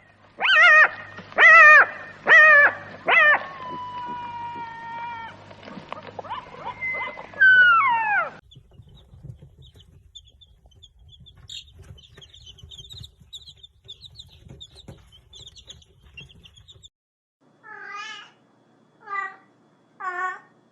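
Cats meowing: a run of loud, repeated meows in the first eight seconds, then a quieter stretch of faint high twittering, then several shorter meows near the end.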